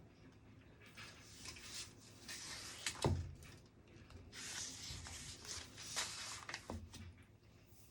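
Rustling with a few light knocks: things being handled at a desk, the clearest knock about three seconds in.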